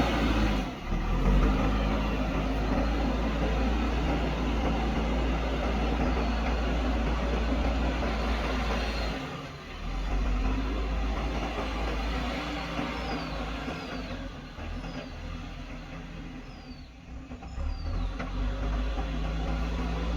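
JCB backhoe loader's diesel engine running under work, steady and loud, its level dipping briefly about halfway through and again near the end.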